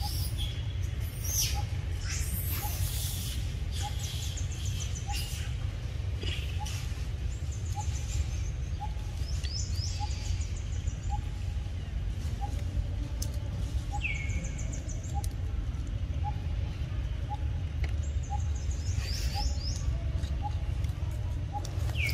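Birds chirping and calling, with a few calls sliding down in pitch, over a steady low rumble. A faint short peep repeats about once a second.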